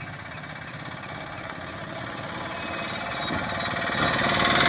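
A small-engined road vehicle approaching, its rapid engine pulsing growing steadily louder as it draws near.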